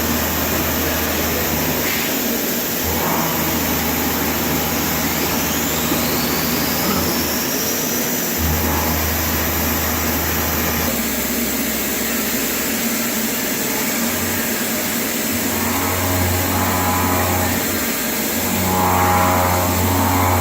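CNC milling machine face milling 316 stainless steel with through-spindle air blowing: a steady hiss of air and cutting noise, with a rising whine about five seconds in.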